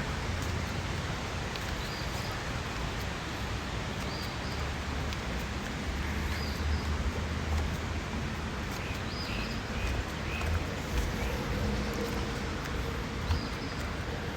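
A bird giving a short, high call several times, with a quick run of lower chirps midway, over a steady rushing outdoor background with a low rumble.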